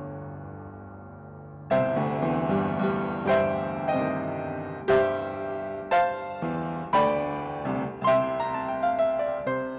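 Piano playing: a held chord dies away, then a little under two seconds in a new passage of struck chords and melody notes begins, with about one strong accent a second.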